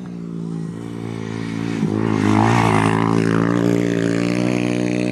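Small pit bike engine running at steady revs, growing louder about two seconds in and holding there.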